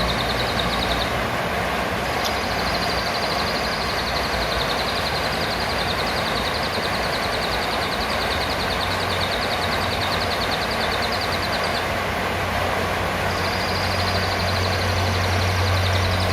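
Serindit (blue-crowned hanging parrot) giving a long, high, very rapid trill that breaks off briefly a couple of times, over a steady background rumble and hiss.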